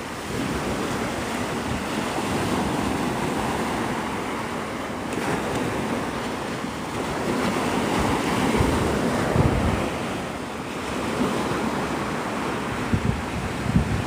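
Surf washing onto the beach with wind buffeting the microphone, the gusts growing stronger in the later seconds.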